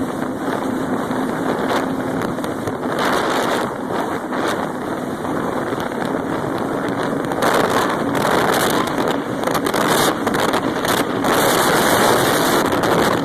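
Jet ski running at speed, its engine a faint steady hum under rushing water and heavy wind buffeting on the microphone, which grow louder about halfway through.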